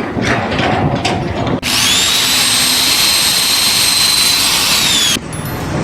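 A high-pitched power tool runs for about three and a half seconds, its whine rising as it starts and falling as it winds down, after a short stretch of mixed noise.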